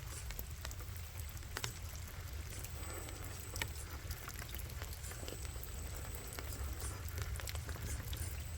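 Scattered small clicks and crackles over a low steady rumble, as the RC4WD Gelande 2 scale crawler's tyres pick their way over wet rock.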